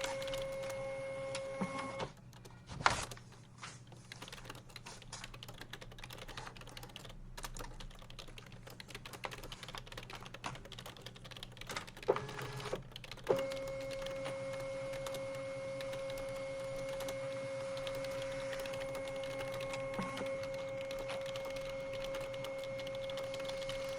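Typing on a computer keyboard in an office, with a steady machine hum that cuts out about two seconds in and comes back about eleven seconds later. A few louder knocks sound during the quieter stretch.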